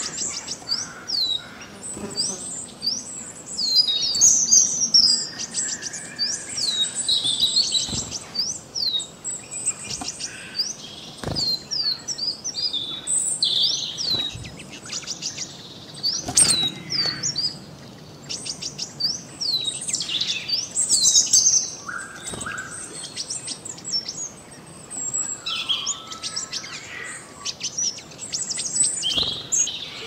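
Small birds chirping: a steady stream of short, high, downward-sliding chirps mixed with quick twittering trills, with a few sharp clicks.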